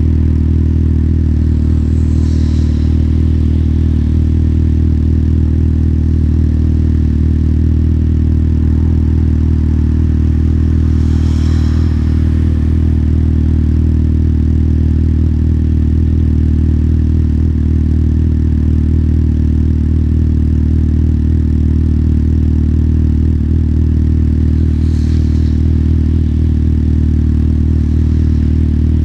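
Motorcycle engine running steadily at an unchanging pitch. Three brief hisses rise over it, one a couple of seconds in, one near the middle and one near the end.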